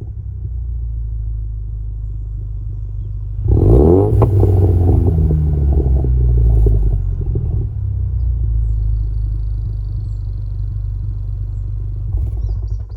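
2018 Mustang EcoBoost's turbocharged 2.3-litre four-cylinder running through an MBRP Race straight-through exhaust: a steady low rumble, then a sharp rev about three and a half seconds in whose pitch sweeps and falls back over several seconds to a steady low drone.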